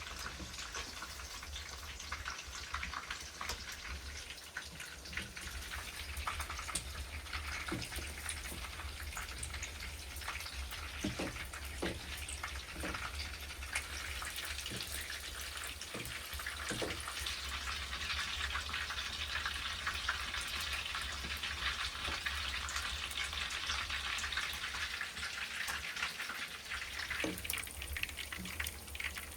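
Food frying in a pan: a steady crackling sizzle, with a few soft knocks around the middle and near the end.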